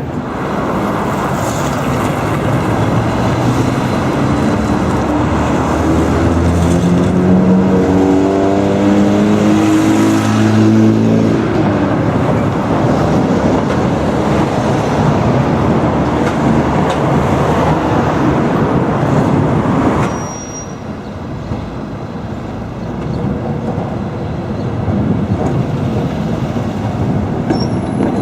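71-301 tram running loudly, with a whine that rises steadily in pitch from about five to eleven seconds in, as when the motors pull the car up to speed. The noise dips briefly about two-thirds of the way through, then builds again.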